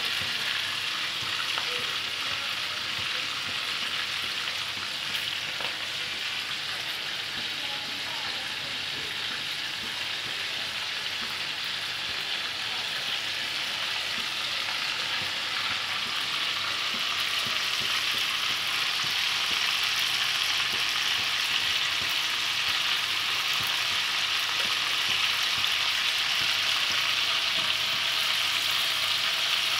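Minced-meat koftas frying in hot oil in a pan: a steady sizzle that grows a little louder about halfway through.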